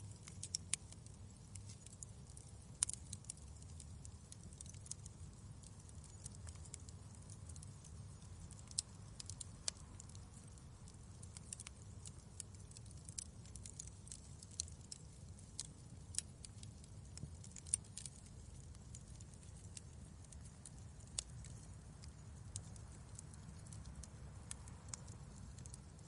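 Wood fire crackling in a fireplace: irregular sharp pops and snaps, a few a second, over a low steady rumble of the flames.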